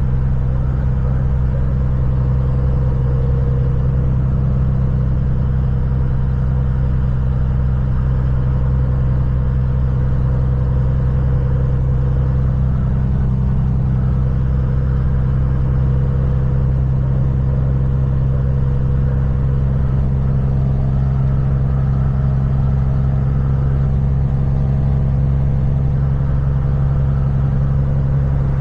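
Kenworth semi truck's diesel engine running with a steady, unchanging low drone.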